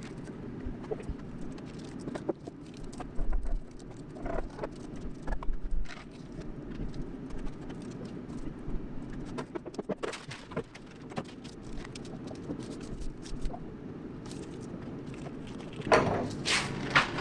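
Paper pattern being handled and trimmed: scattered light rustles and clicks over a steady low hum, with a louder rustle of paper near the end.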